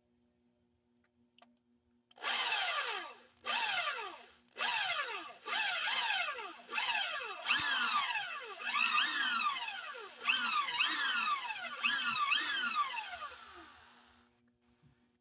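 Electric hand drill run in short trigger bursts, its motor whine rising and falling with each pull, while drilling shallow holes into a steel motorcycle clutch plate. The bursts start about two seconds in, come roughly once a second, and stop shortly before the end.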